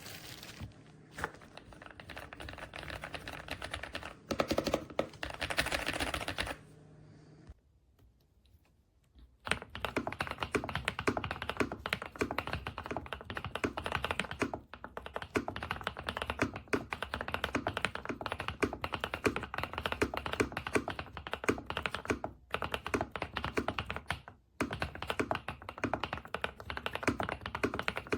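Rapid typing on a gasket-mounted mechanical keyboard with linear switches: a dense run of key clicks that stops for a couple of seconds about eight seconds in, then resumes and keeps going with brief breaks.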